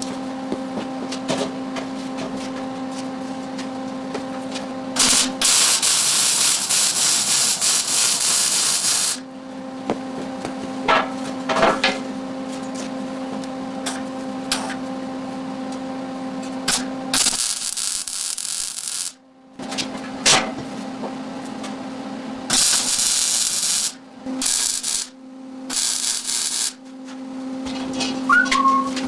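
Electric welding arc sizzling in bursts on steel tubing: one long weld of about four seconds starting about five seconds in, then several short tack welds near the end. A steady electrical hum runs beneath, with a few metal knocks.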